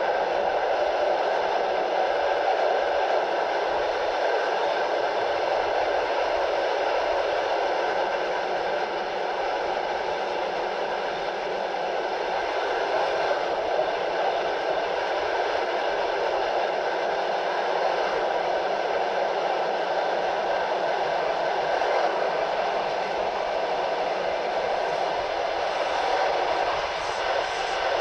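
Passenger coach running at speed, heard from its window: a steady rumble of wheels on rails mixed with rushing air, with no clear clickety-clack rhythm.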